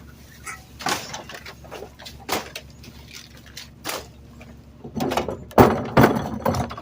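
Trash knocking and clattering into a garbage truck's rear hopper, with single knocks at first and a burst of heavy clatter in the last two seconds. The truck's engine runs steadily underneath.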